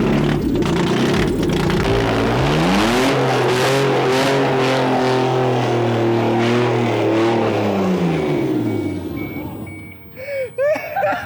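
Straight-piped 2.8-litre V6 of an Audi A4 B5 revving up, holding its revs, then dropping back and fading away near the end. It is loud, with no mufflers on the exhaust.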